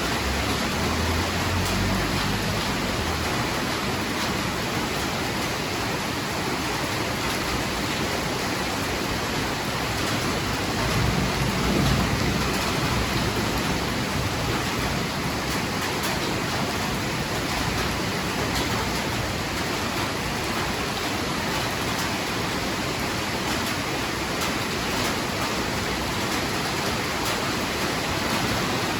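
Heavy rain falling steadily, with low rumbles of thunder at the start and again about eleven seconds in.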